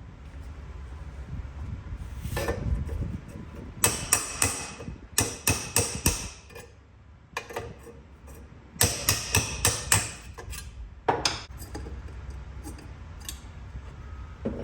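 Hammer blows on metal in two quick runs of about five or six strikes each, with a few lighter knocks between and after, as a battered exhaust flange is beaten back into shape to save it.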